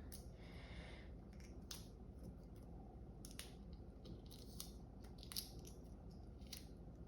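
Faint, scattered clicks and taps of a knife working on a peeled hard-boiled egg to cut it open, with the sharpest tap about five and a half seconds in.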